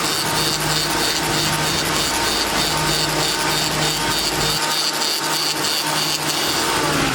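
A power tool running steadily with a constant high whine, which stops shortly before the end.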